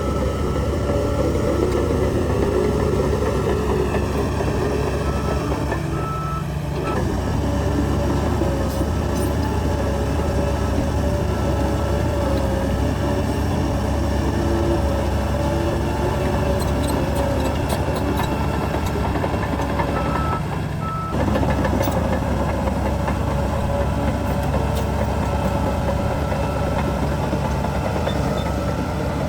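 Heavy diesel earthmoving machinery running under load, with a reversing alarm beeping over the engine.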